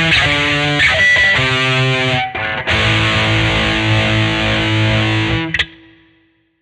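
1982 Vantage VE-550 electric guitar playing a quick run of notes, then a held chord that is cut off about five and a half seconds in.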